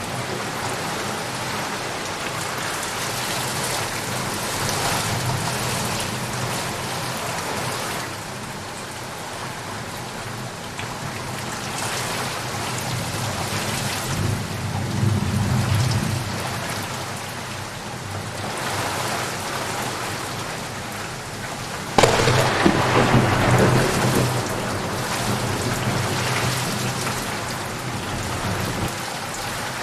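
Steady heavy rain falling, with thunder rumbling: a low roll about halfway through, then a sudden sharp thunderclap at about two-thirds of the way in that rumbles on for a few seconds.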